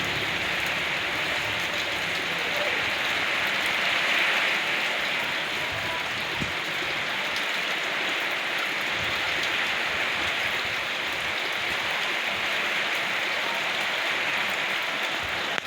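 Rain falling steadily, an even hiss of drops that holds level throughout.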